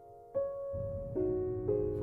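Background piano music: slow, separate notes struck one after another and left ringing.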